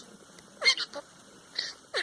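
Pet parrot squawking: short, high-pitched calls, one burst about two-thirds of a second in and another near the end.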